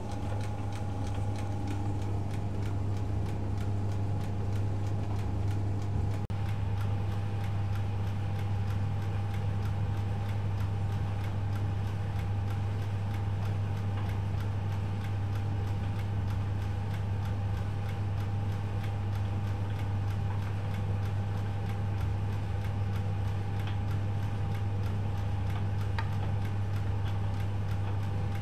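Privileg Multispar 5110 washing machine running steadily: a strong, even hum with a fainter steady higher tone and a fine, rapid ticking over it.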